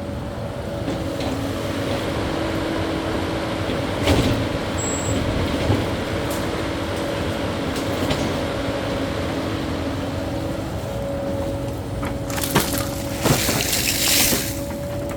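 Cat 308E2 mini excavator's diesel engine and hydraulics running with a steady whine, with sharp knocks about four seconds in and twice near the end, and a loud rushing noise near the end.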